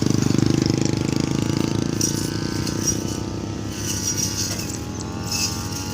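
Heavy diesel engine running steadily with a fast, even firing beat, a little louder in the first second.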